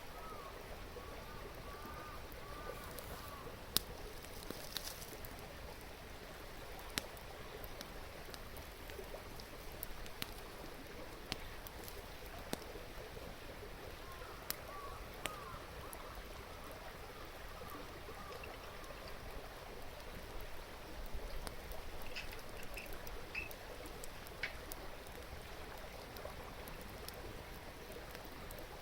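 Steady babbling of a river, with the sharp, scattered pops of a wood fire crackling over it.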